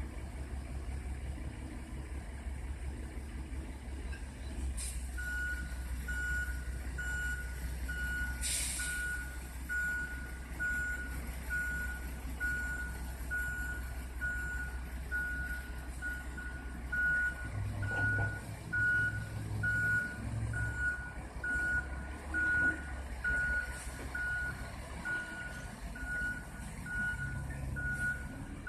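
Garbage truck's engine running with a deep rumble; about five seconds in, its reversing alarm starts and keeps beeping about once a second. A short hiss of air comes about eight seconds in.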